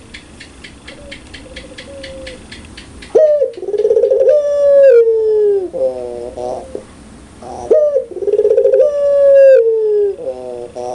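Puter pelung (Barbary dove) cooing loudly in repeated phrases, each a rolling coo ending in a long falling note. The first coo comes about three seconds in; before it there is only a faint fast ticking.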